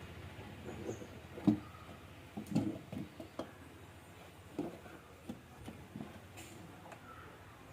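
Scattered light knocks and clicks of tools and parts being handled, the sharpest about a second and a half in and a few more around two and a half to three and a half seconds.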